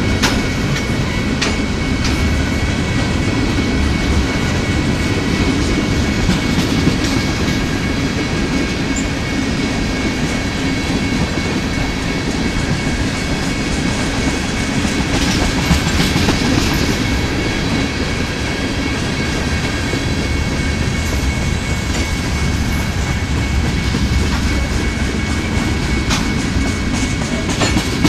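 Tank cars of a Norfolk Southern manifest freight train rolling past at close range: a steady rumble of steel wheels on rail with irregular clacks as the wheels cross rail joints, and a steady high-pitched ring over it.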